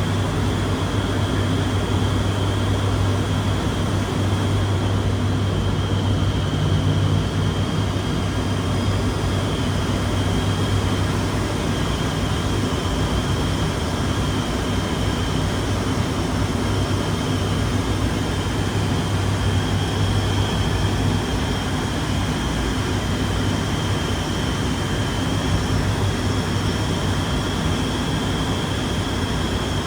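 ATR 72-600's turboprop engines and propellers running steadily: a constant low propeller drone with a thin high whine above it and a hiss of air noise.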